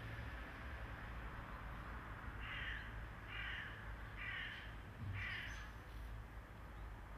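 A bird cawing four times in a row, short harsh calls about a second apart, over a steady low rumble.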